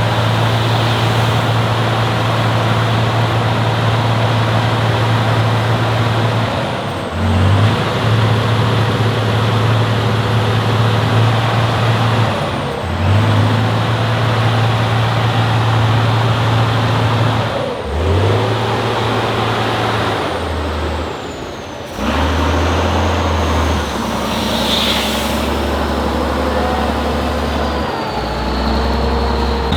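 Heavy off-road trial truck's diesel engine running hard under load. Its low note drops out briefly and picks up again about every five to six seconds, then settles lower in the later part. A short hiss comes about 25 seconds in.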